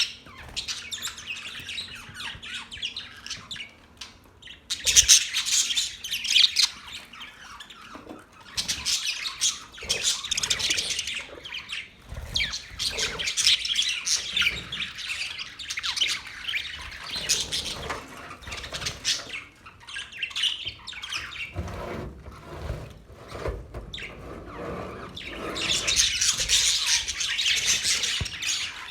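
Pet parrots chirping and squawking in bouts of rapid, high-pitched chatter with short quieter gaps between them. The calling is loudest near the end.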